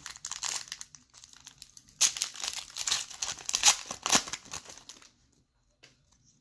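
Plastic foil wrapper of a trading-card pack crinkling and tearing as it is handled and opened, in a short spell and then a louder, longer one that stops about five seconds in.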